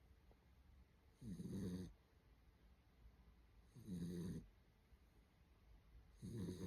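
A two-month-old American Staffordshire terrier puppy snoring in its sleep: three snores about two and a half seconds apart, each lasting about half a second.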